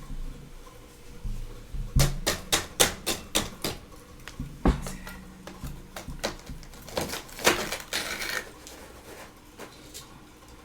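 Freezer frost crunching as it is bitten and chewed: a quick run of sharp crunches about two seconds in, a single hard one a little later, and a denser crunch near the end.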